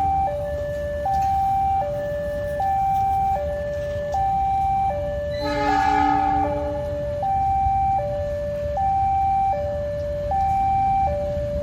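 Level-crossing warning alarm sounding: two electronic tones alternating high and low, each held about three quarters of a second. About halfway through, a short train horn blast sounds over it.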